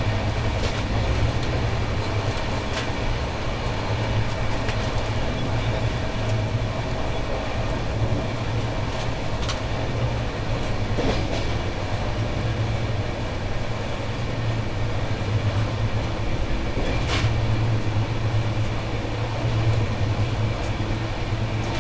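Passenger train running at speed, heard from on board: a steady low rumble of wheels on rail, with a few sharp clicks from the track now and then.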